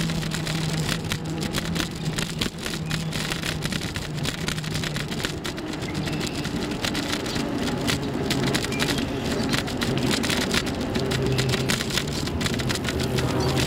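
Continuous road and wind noise from a moving bicycle, crackling and buffeting on the microphone, with a low steady hum that comes and goes.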